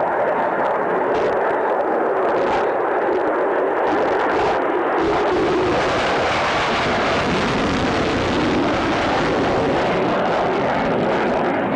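F-16 fighter jet flying a display pass, its engine noise a loud, steady rush that grows fuller about five seconds in.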